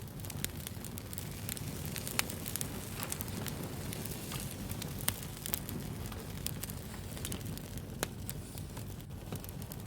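Wood fire burning, a steady low rumble of flames with scattered sharp crackles and pops, a few louder snaps standing out.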